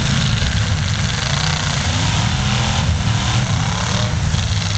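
Engines of several full-size demolition derby trucks running and revving together. The result is a loud, steady low rumble with pitch that rises and falls now and then.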